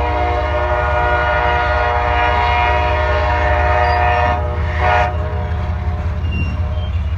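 Diesel freight locomotive's air horn sounding a long blast that cuts off about four seconds in, then a short blast about a second later, over the steady low rumble of the locomotive.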